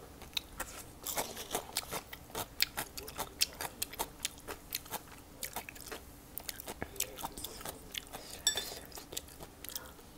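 Close-up chewing and crunching of food by a person eating: many short, crisp, wet clicks and crunches at an uneven pace, several a second.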